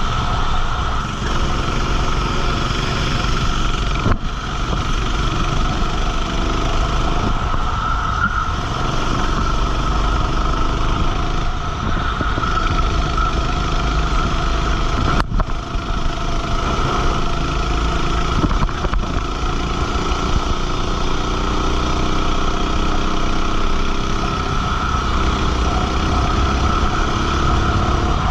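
Go-kart engine running flat out on track, its pitch climbing steadily and then dropping sharply twice as the driver lifts off.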